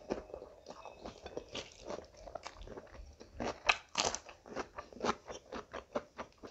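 A person chewing and biting a mouthful of rice eaten by hand, close to the microphone: a run of irregular sharp crunches and mouth clicks, loudest a little past the middle.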